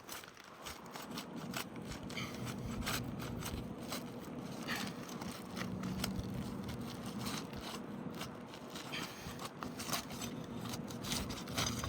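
Irregular scraping and clicking from hand work on asphalt roof shingles, with no single loud blow standing out.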